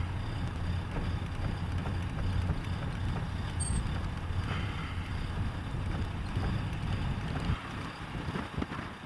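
Steady low rumble of wind and a vehicle in a blizzard, with a hiss of wind over it; the low rumble drops off sharply about seven and a half seconds in.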